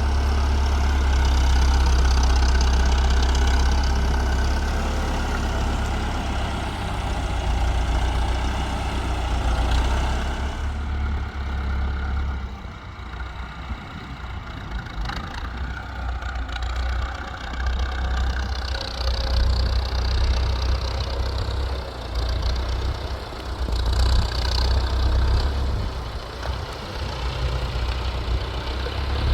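Tractor engine running: steady for roughly the first ten seconds, then rising and falling unevenly.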